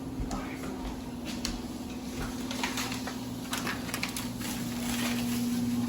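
Groceries being handled while they are put away: scattered light knocks and crinkles of packaging over a steady low hum.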